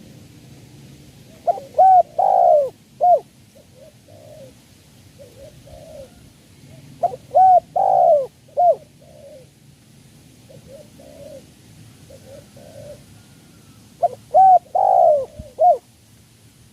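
Spotted dove cooing: three loud phrases of about four cooing notes each, roughly every five to six seconds, with fainter coos in between.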